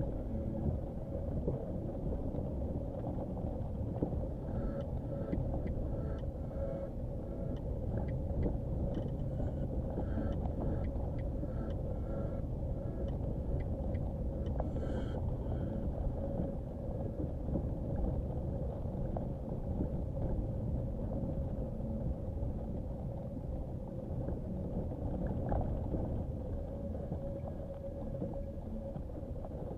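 Nissan Qashqai driving slowly on a rough dirt track: steady engine and tyre rumble with a constant hum. Many short knocks and rattles come between about 4 and 16 seconds in.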